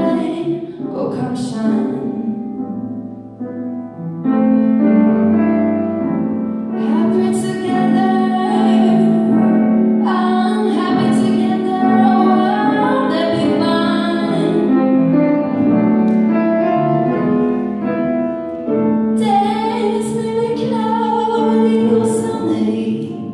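Female voice singing a slow jazz ballad with piano accompaniment, some held notes wavering with vibrato.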